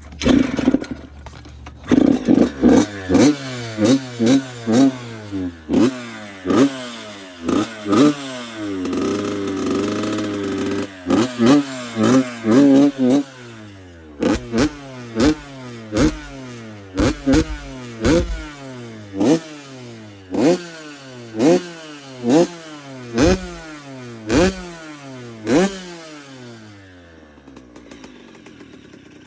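Yamaha YZ85 two-stroke single-cylinder dirt bike engine catching on the kickstart, then revved in quick repeated blips with one longer held rev around the middle. It settles to a low idle near the end. The owner thinks it needs rejetting.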